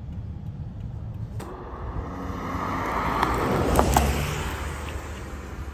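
A car's engine running with a steady low rumble. A rushing noise swells from about a second and a half in to a peak around four seconds, with a few sharp clicks at its height, then fades.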